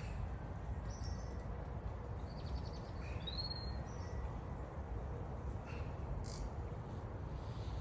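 Wind buffeting the microphone in a steady low rumble, with scattered short bird chirps over it, including a quick trill and a rising chirp a few seconds in.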